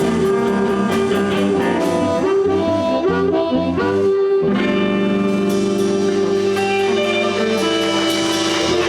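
Live blues band playing an instrumental passage: guitars, bass and drums, with harmonica. The notes turn into longer held tones about halfway through.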